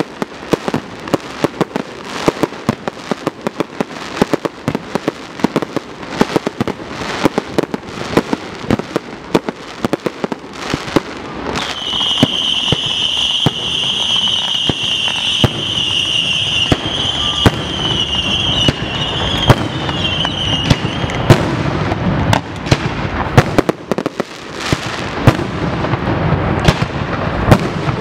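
Fireworks display: a rapid, continuous crackle of sharp bangs, with a high whistle from a whistling firework from about twelve seconds in until about twenty-one seconds, and the bursts growing louder and heavier in the second half.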